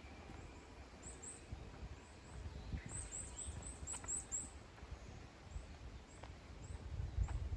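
Small birds calling in woodland: short, very high thin chirps repeated in quick clusters, most of them bunched together in the middle. A low rumble sits underneath and grows louder near the end.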